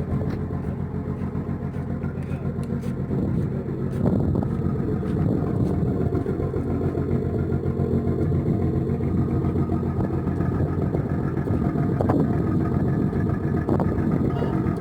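Motor engine running steadily, a little louder from about four seconds in.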